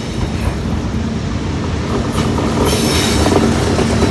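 A train rolling past on the rails, a steady rumble of the cars and wheels that grows louder and brighter about two seconds in.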